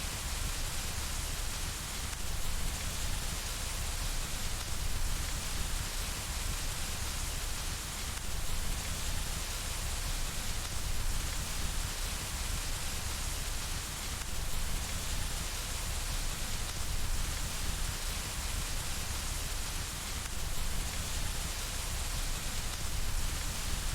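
Steady rain falling on window glass, an even hiss with a low rumble underneath.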